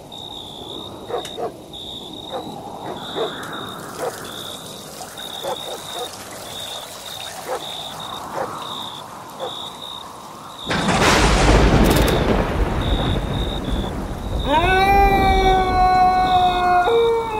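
A regular high-pitched chirp pulses about twice a second over scattered faint ticks. About eleven seconds in, a sudden loud rush of noise with a deep rumble lasts a few seconds, like a thunderclap. It is followed by a long drawn-out howl that rises at its start and then holds steady.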